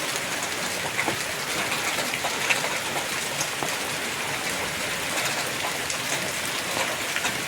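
Heavy hailstorm: hail and rain falling steadily, with scattered sharper ticks of hailstones striking.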